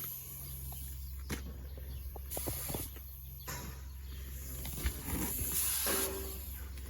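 Air-fed paint spray gun hissing in two short bursts, one about two seconds in lasting about a second and a shorter one near six seconds, over the steady low hum of an air compressor running.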